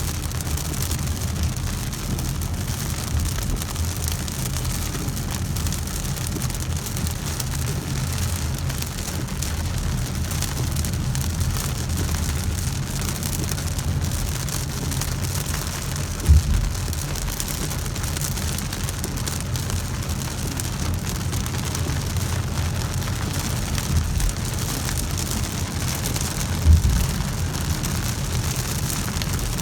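Heavy rain falling steadily, a continuous hiss over a low rumble. Two brief thumps stand out, one about halfway through and one near the end.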